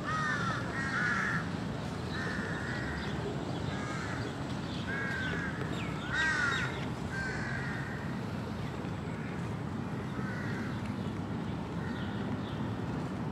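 A bird calling over and over, a string of short pitched calls about one a second, louder in the first half and fainter toward the end, over a steady low rumble.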